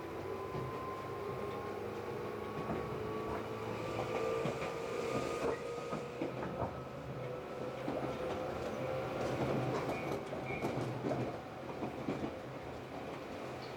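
Tobu 8000 series electric train running, heard from inside the car: the traction motor whine rises in pitch as the train picks up speed and levels off after about eight seconds, over steady running noise with clicks from the wheels and rail joints.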